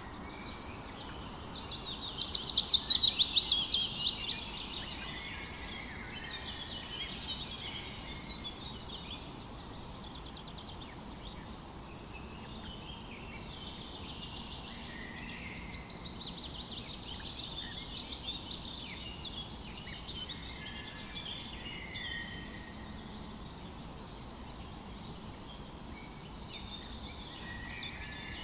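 Several songbirds singing and chirping together in a morning chorus. About two seconds in, one bird gives a loud, fast trill that slides down in pitch, the loudest sound here; after that comes a steady mix of overlapping calls over a faint background hiss.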